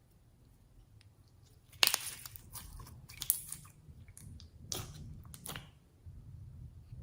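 Slime being pressed and kneaded by hand, giving a few sharp crackling, crunchy squishes, the first about two seconds in, with quieter handling between them.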